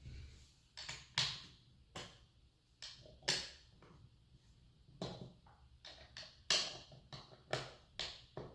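Irregular small clicks and knocks, about a dozen, from handling bolts, washers and stool parts while fitting long bolts with washers into the pre-drilled holes where the seat meets the chair back.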